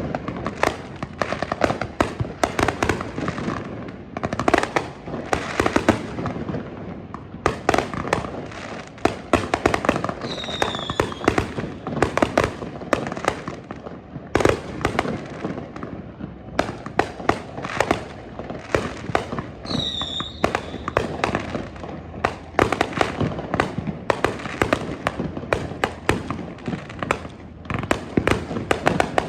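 Fireworks display: a continuous, irregular barrage of sharp bangs and crackling reports, with a short falling whistle twice, about ten and twenty seconds in.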